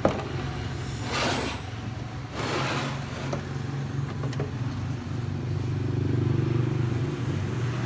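Steady low engine hum of nearby motor traffic, swelling slightly near the end, with two brief rushing swishes about one and two and a half seconds in.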